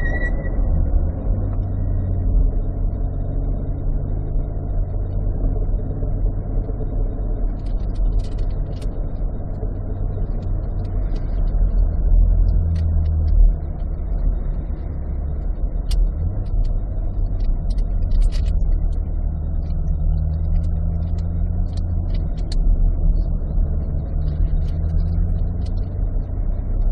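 C8 Corvette's mid-mounted 6.2-litre V8 running at low revs, around 1,000 rpm, as the car rolls slowly, heard from inside the cabin: a steady low drone with a few light clicks over it.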